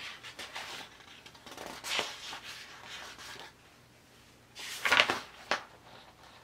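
Handling noises in a small room: rustling and scratching in several short bursts, the loudest about five seconds in.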